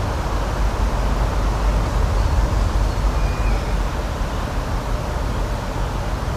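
Steady outdoor nature ambience: a continuous rushing noise with a deep, fluttering rumble underneath. A faint, brief high chirp comes about three seconds in.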